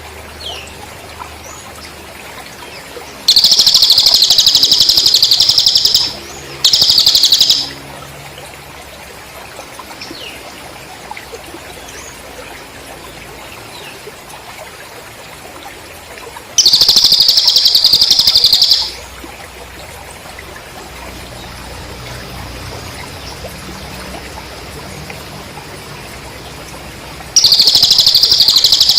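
Cricket song in loud, even, high-pitched trills lasting two to three seconds, three times, with a short extra burst after the first. Faint high bird chirps come in between.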